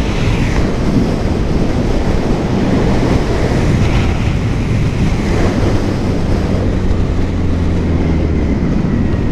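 Wind rushing over the microphone of an electric motorcycle riding at speed. A low, steady engine drone runs under it for several seconds in the middle.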